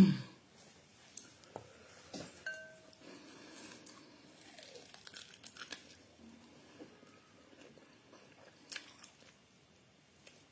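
Chewing and small crunching clicks of a person eating barbecued meat and bread by hand, with a brief voice sound at the very start.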